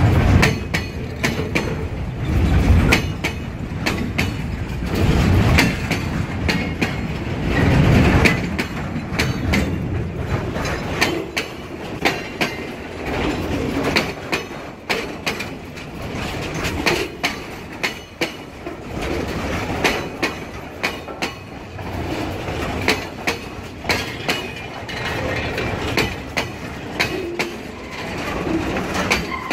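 Container wagons of a long freight train rolling past close by: a continuous rumble and rattle, with the wheels clacking over the rail joints in frequent sharp clicks.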